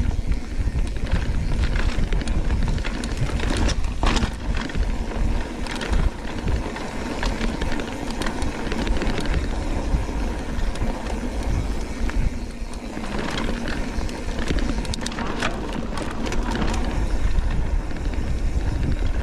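Mountain bike riding fast on a dirt trail: steady wind rumble on the camera's microphone over tyre noise, with scattered clicks and knocks from the bike rattling over rough ground.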